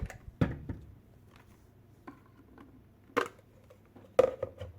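Plastic clicks and knocks from a cordless stick vacuum cleaner being opened up by hand: a few sharp clicks, the loudest about three and four seconds in.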